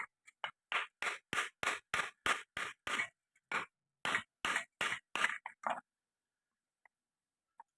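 Repeated short scraping strokes, about three a second and evenly paced, from hand work on a motorcycle engine part; they stop for about two seconds near the end.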